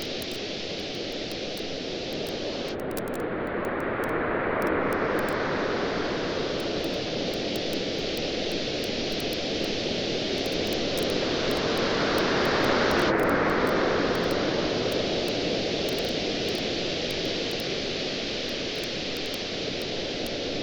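Ocean waves washing onto a beach: a steady rushing surf that swells twice, with faint crackles from a beach bonfire over it.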